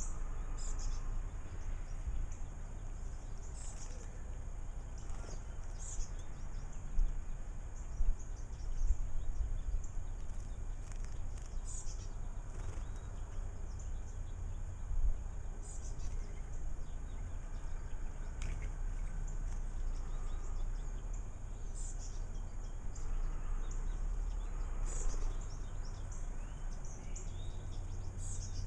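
Small bird chirping: short, high, single chirps repeated every few seconds over a steady low outdoor rumble, with a few brief knocks.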